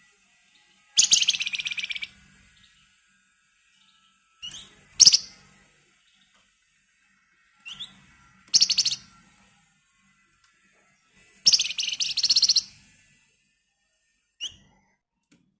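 Flamboyan (wergan Jawa) songbird singing four loud, fast rattling trills (the 'ngebren' chatter kept as a lure song), each about a second long. Short single rising notes come before several of them, and one more near the end.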